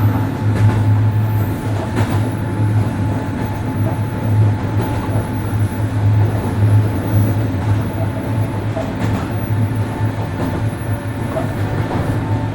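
103 series 1500 subseries electric train running at speed: a steady low hum over rolling noise, with a few sharp clicks from the wheels on the rails, the clearest about two seconds in.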